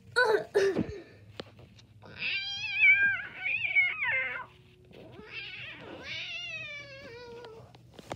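Cat-like yowling: a couple of short sharp cries, then two long, high, wavering yowls, the second sliding down in pitch.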